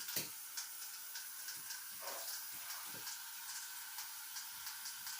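Brush scrubbing a wet bathroom floor: a steady hiss with light, irregular scraping strokes.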